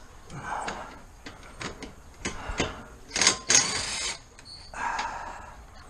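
Metal hand tool clicking and clinking against a small bolt at a car's wheel hub as the 10 mm ABS sensor bolt is worked loose, with irregular clicks and a couple of louder clanks about three seconds in.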